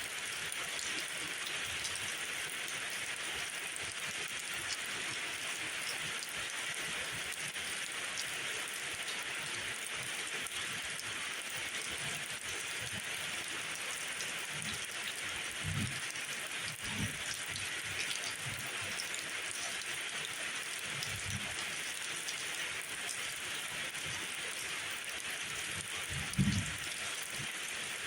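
Steady rainfall, an even hiss of drops on surfaces, with a few soft low thuds here and there, the loudest about twenty-six seconds in.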